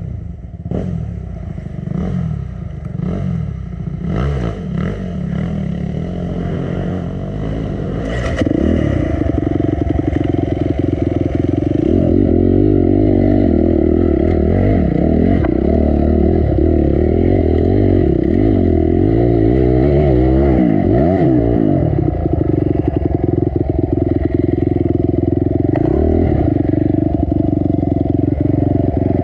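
Honda CRF250 dirt bike's single-cylinder four-stroke engine working up a steep rocky climb: short bursts of throttle with clattering knocks at first, then held at high revs for over ten seconds with the pitch wavering up and down. The engine settles to a steadier note near the end.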